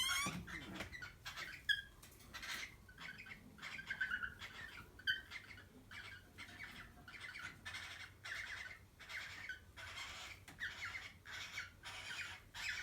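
Cockatiel giving short squawks and chirps in a rapid, uneven series, about two a second, while mating.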